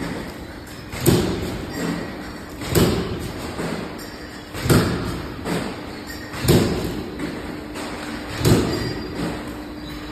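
Five heavy thumps at an even pace, about one every two seconds, each followed by a softer knock, over a steady low hum.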